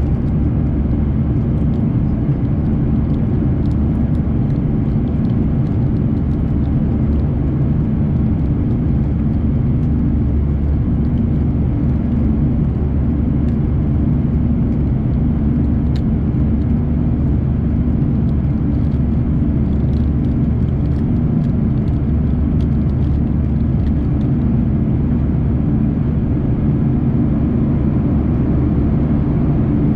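Steady engine and airflow noise of a Lufthansa Airbus A340-300 heard inside the cabin: an even low rumble with a constant hum and a few faint ticks.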